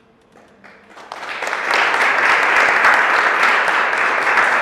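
Audience applauding: a few scattered claps swell about a second in into loud, sustained applause from a seated crowd.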